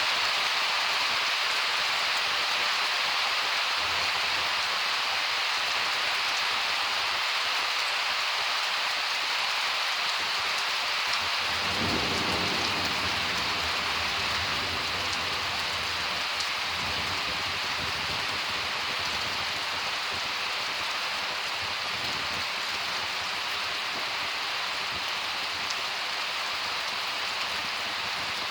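Steady heavy rain falling, with a low roll of thunder rumbling for several seconds about midway.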